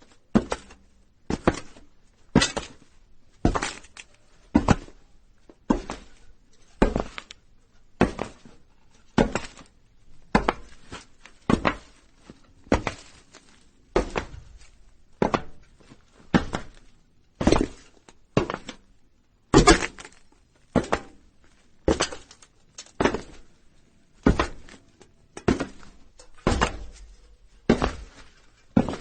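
Footsteps of a person walking on a roof: steady heavy steps about once a second, each a sharp knock, some with a lighter knock close after.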